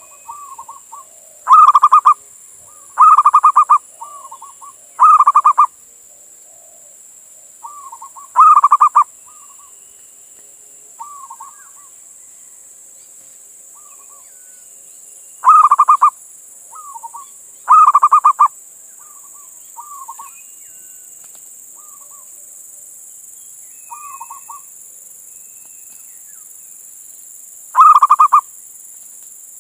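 Male zebra dove (perkutut) calling to a female: loud, rolling, trilled coos about half a second long, repeated every few seconds, with softer short cooing notes between them.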